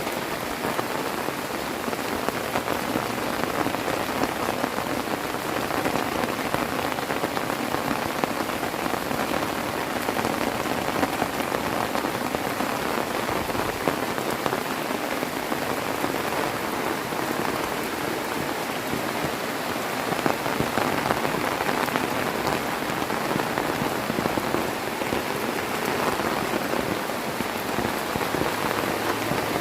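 Heavy rain falling steadily: a dense, even hiss of drops hitting surfaces.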